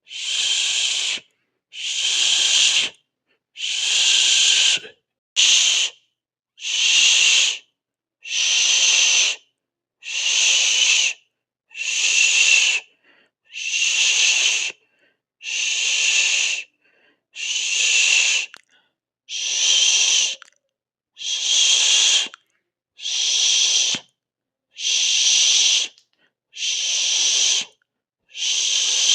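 Repeated hissing, a sharp 'sss' sound in bursts of about a second each, separated by brief silences, about two bursts every three seconds; one burst about five seconds in is cut short.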